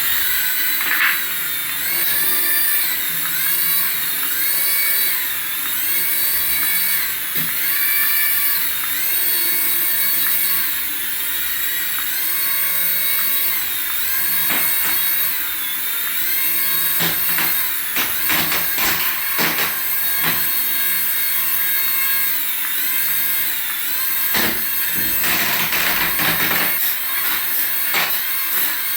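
Battery-powered RC toy whining steadily, its pitch stepping up and down over and over, with bursts of clicking partway through and near the end.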